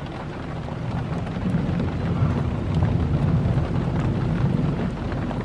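Steady rain in a thunderstorm, with a continuous low rumble beneath it and scattered faint ticks of drops.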